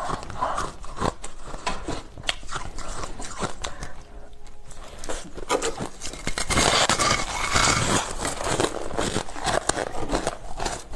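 Ice being bitten and chewed close to the microphone: a continuous run of sharp crunches and cracks, easing off briefly in the middle, then growing denser and louder in the second half.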